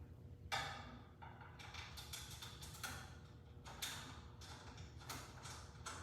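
Irregular clicks, knocks and clatters of tools and metal parts being handled while the blade on a 12-inch miter saw is changed. The sharpest knock comes about half a second in.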